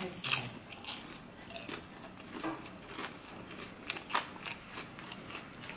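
A person chewing crispy fried chicken, with scattered crisp crunches, the loudest about four seconds in.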